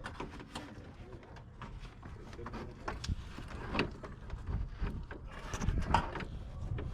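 Irregular clicks and knocks of hand tools and parts being handled during work on a car, with a few louder knocks about three, four and six seconds in.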